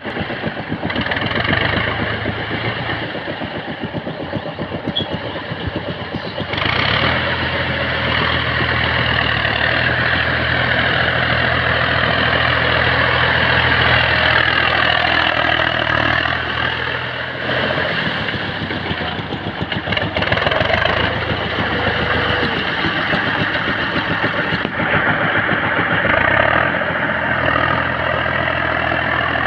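Tractor engine running steadily, picking up in loudness about six and a half seconds in and holding there.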